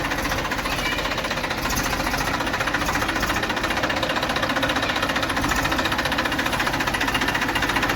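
Massey Ferguson tractor's diesel engine running steadily, with a fast, even beat.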